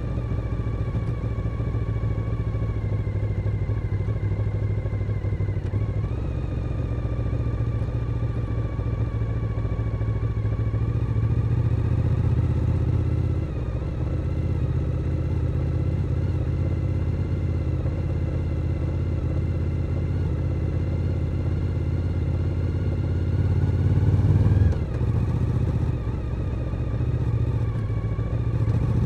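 Suzuki SV1000N's V-twin engine running under way. The engine note wavers with the throttle, dips briefly about thirteen seconds in, and climbs in pitch and loudness about twenty-four seconds in before dropping off abruptly.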